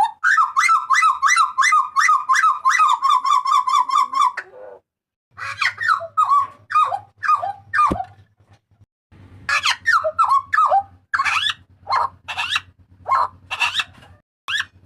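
Papuan butcherbird calling loudly: a fast run of repeated notes, about five a second, for some four seconds, then after a short pause a series of separate downward-sliding whistled calls.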